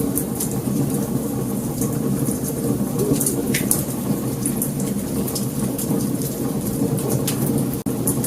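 Wood fire burning: a steady low rush of flames with frequent sharp crackles and pops, and a momentary break in the sound near the end.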